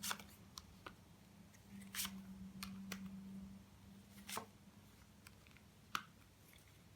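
Faint clicks and soft taps of tarot cards being handled and laid down, with a few sharper snaps about two, four and a half and six seconds in.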